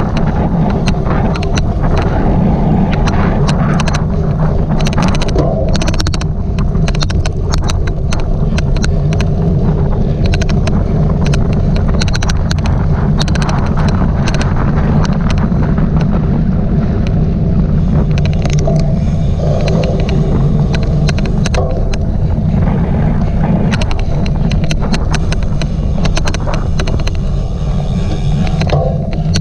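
Heavy wind buffeting the microphone of a riding cyclocross bike's camera, with frequent irregular sharp clicks throughout: the odd clicking noise of this ride.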